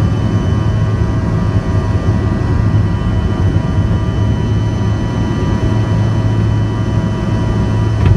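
Cabin noise of a Bombardier CRJ-200 airliner: its rear-mounted General Electric CF34 turbofan engines running with a steady low drone and several high, steady whine tones over it.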